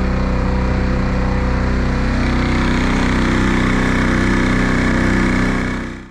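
4 hp Yamaha outboard motor running steadily under way, a constant buzzing drone with the rush of the boat through the water; it fades out near the end.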